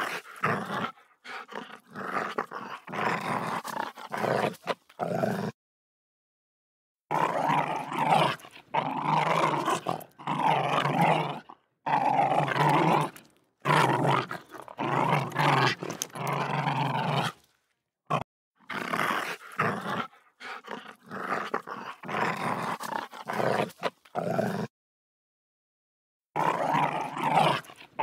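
Recorded dog growling and snarling, played as several clips in a row with short silent gaps between them.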